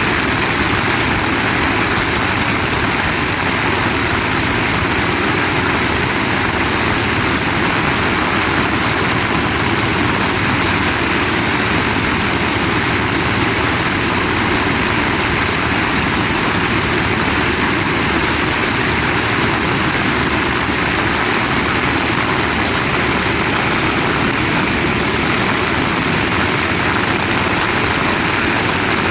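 Heavy rain falling steadily, a dense, even wash of noise with no let-up.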